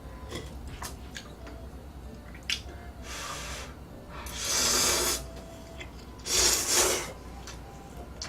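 Eating sounds: light clicks of cutlery against dishes, with three short hissing rushes about three, four and a half and six and a half seconds in, the last two the loudest.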